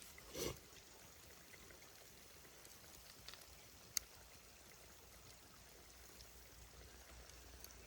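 Very quiet forest ambience: a faint steady hiss, broken by a brief rustling burst about half a second in and a single sharp click at about four seconds.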